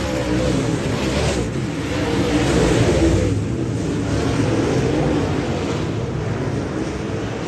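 Dirt-track modified race car engine running, its pitch and loudness rising and falling, over a steady rushing noise.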